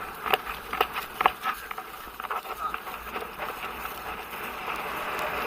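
Horse's hooves knocking on the ground at a canter, a knock about every half second, then a swelling rush of wind on the microphone as the horse picks up speed.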